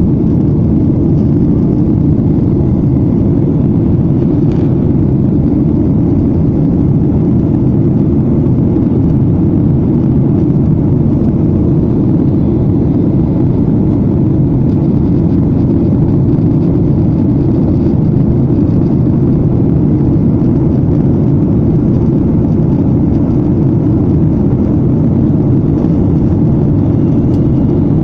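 Steady low drone of an airliner in flight heard from inside the passenger cabin: engine and airflow noise, unchanging throughout.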